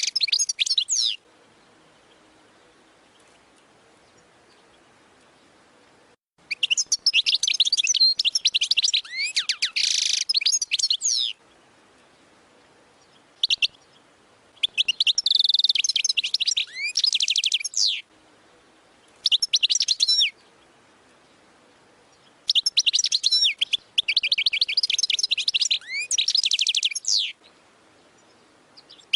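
European goldfinch singing the Wadani-style song: rapid, high twittering phrases of trills and gliding notes. They come in several bursts, the longest about five seconds, separated by short pauses.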